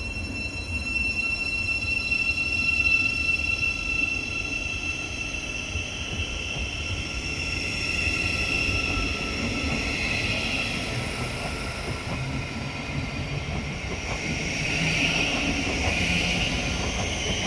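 Class 700 electric multiple unit pulling out of the station: a steady high traction-motor whine over wheel and rail rumble, fading after about ten seconds. A rushing hiss of train noise rises near the end.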